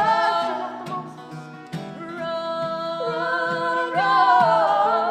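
Live folk-rock song: voices singing long held notes in harmony over acoustic guitar.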